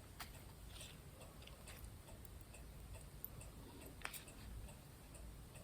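Near silence with a few faint, irregular small clicks, the clearest about four seconds in, from pins and fabric being handled while a folded fabric piece is pinned.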